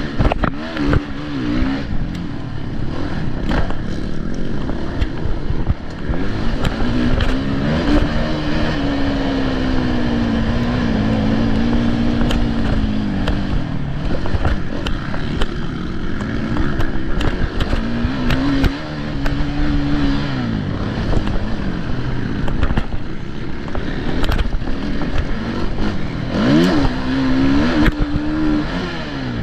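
Motocross bike engines revving up and down as they race, their pitch rising and falling repeatedly over a dense rumble.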